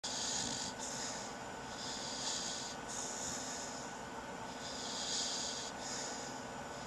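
A sleeping dog snoring: hissy, snorting breaths that repeat every couple of seconds.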